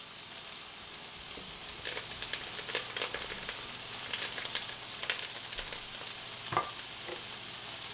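Broccoli florets just dropped into a hot pan, with chicken breasts frying in a second pan: a steady sizzle, with a thicker patch of crackling pops from about two to five seconds in. A single brief clunk comes near the end.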